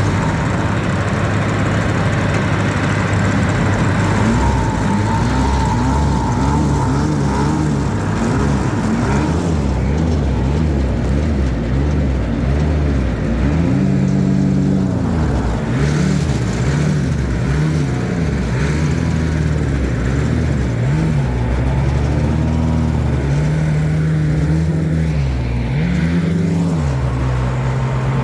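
Home-built jet boat's engine running hard on the water, its pitch rising and falling again and again as the throttle is opened and eased off.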